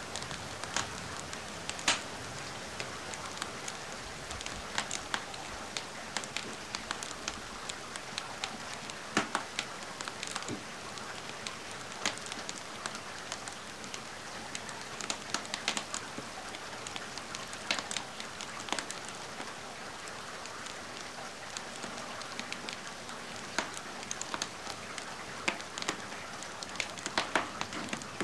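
Steady rain falling, mixed with a wood fire crackling in a fireplace, with irregular sharp pops scattered through it.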